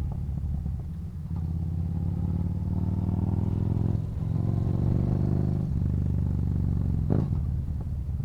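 Yamaha Bolt's air-cooled V-twin engine pulling under acceleration: its pitch rises, dips at a gear change about four seconds in, rises again and dips at a second change near six seconds, then runs steadily. A brief sharp knock sounds near seven seconds.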